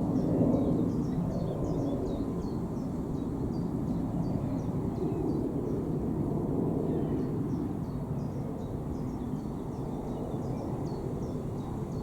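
A steady low rumbling noise, loudest in the first second, with a small bird's high, thin chirps repeating throughout.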